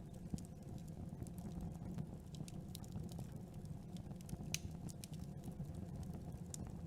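Campfire burning: wood crackling with scattered sharp pops over a low, steady rumble of the flames, the sharpest pop about four and a half seconds in.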